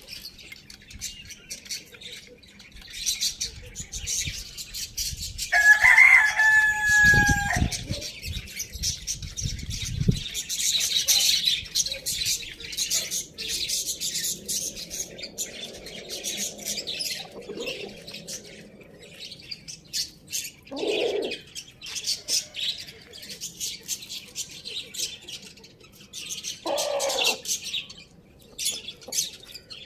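A rooster crows once, a pitched call of about two seconds a few seconds in, with low thuds just after it. Small birds chirp continually throughout, and two shorter, lower calls come later.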